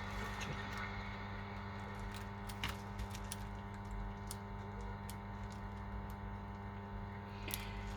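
Small scattered clicks and taps of phone parts and tools being handled during an iPhone screen repair, over a steady electrical hum.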